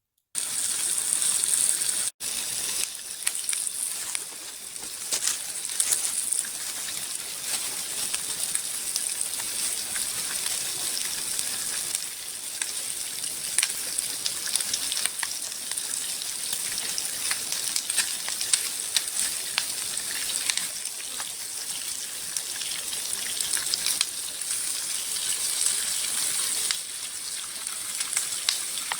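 Small forest stream running over rocks, a steady rushing with fine ticks and splashes, broken briefly about two seconds in.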